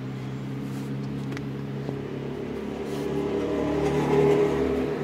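A motor vehicle's engine running, a steady hum that swells louder about four seconds in and then eases off.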